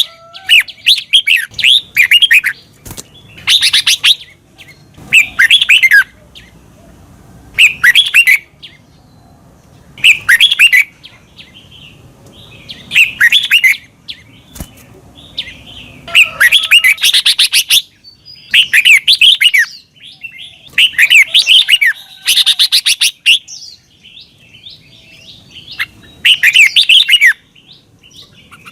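Red-whiskered bulbul singing loud, short phrases of quick warbling notes, repeated every two seconds or so with brief pauses between.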